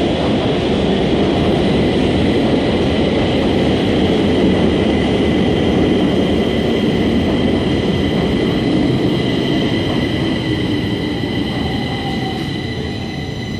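Train passing close by: a loud, steady rumble of wheels on the rails with a steady high whine over it, easing off a little near the end.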